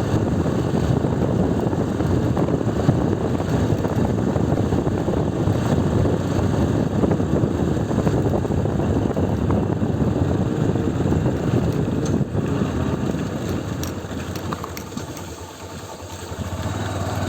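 Motorcycle being ridden, its engine running under a dense rushing noise. The noise fades a little after three-quarters of the way through, and near the end the engine settles into a steady low idle.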